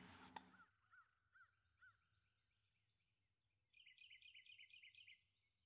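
Faint small-bird calls: a few single chirps about half a second apart, with the outdoor background dropping away under a second in, then a quick run of high twittering notes around four seconds in.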